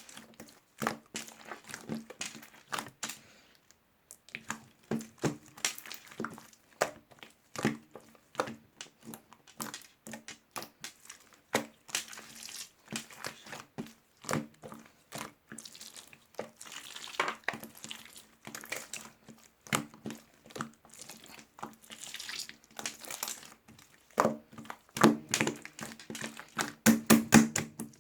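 Plastic packaging of a peach drink crinkling and being tapped and handled, a steady run of short irregular clicks and crackles that grows busier and louder near the end.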